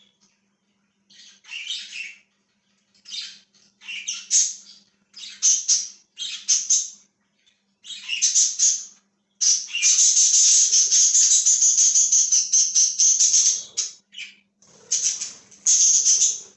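A flock of pet budgerigars chirping and chattering in short bursts, with one long unbroken run of rapid, loud chatter lasting about four seconds in the middle.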